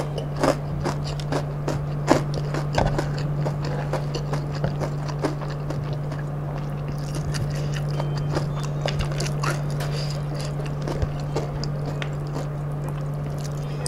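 Close-up chewing of crispy fried kremesan crumbs with rice and fried chicken: crunchy crackles and wet mouth clicks, thickest in the first half, with fingers picking through the food on the wooden tray. A steady low hum lies underneath.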